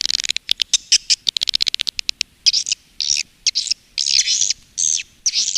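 Swiftlets calling on a swiftlet-farm lure recording: a rapid train of sharp, high clicks for about the first two seconds, then a string of short, high chirps about two a second.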